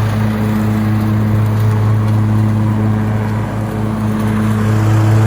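Riding lawn mower engine running steadily with the cutting deck engaged, a constant low hum.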